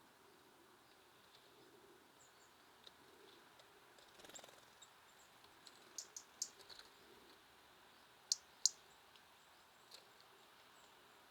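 Small songbirds giving short, sharp, high-pitched call notes over a faint outdoor background. There is a quick cluster of calls about six seconds in and two louder ones about eight and a half seconds in.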